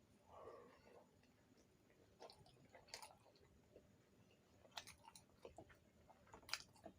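A person chewing puri with potato curry close to the microphone: faint, scattered wet mouth clicks. A softer mouth sound comes in the first second, and the sharpest click comes near the end.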